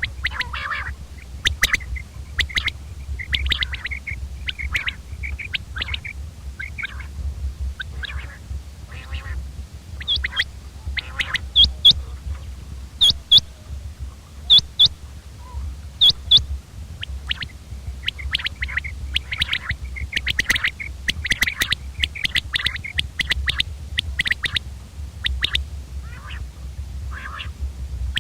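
Common quail calling: short, sharp calls repeated over and over throughout, a few higher and louder ones in the middle, over a steady low hum.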